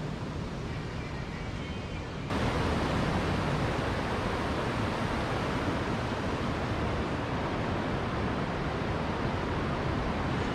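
Steady rushing noise with nothing pitched in it, jumping louder at a cut about two seconds in and then holding level.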